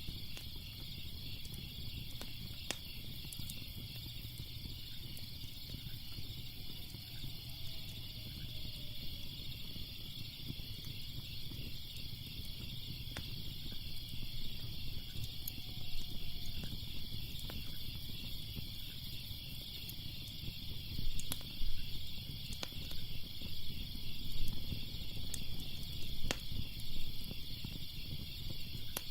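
Crickets chirping steadily in a dense, pulsing chorus, with sparse sharp crackles of a wood fire and a low rumble that swells a few times in the second half.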